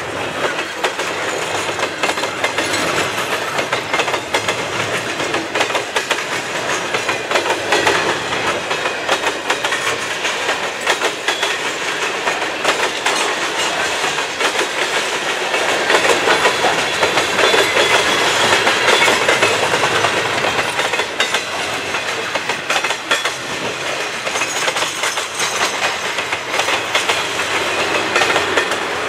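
Double-stack well cars and hopper cars of a long freight train rolling past, steel wheels clicking and rattling on the track over a steady rumble. A bit louder for a few seconds midway.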